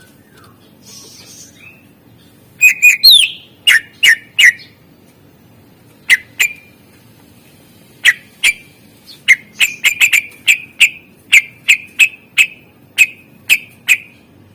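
Greater green leafbird (cucak ijo) calling in loud, sharp, clipped notes. A quick cluster with one falling note comes a few seconds in, then a run of repeated notes, about two to three a second, near the end.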